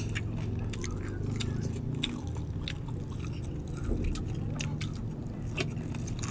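People chewing and biting crispy deep-fried pork belly (bagnet) with its crackling skin: irregular small crunches and mouth sounds, over a steady low hum.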